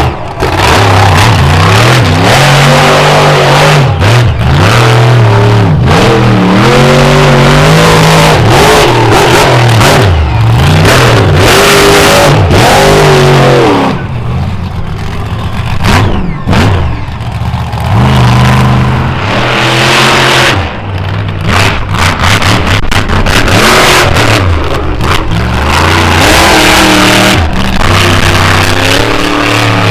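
Monster truck engine revving hard and repeatedly, its pitch climbing and dropping as the throttle is worked, easing off for a few seconds in the middle before rising again.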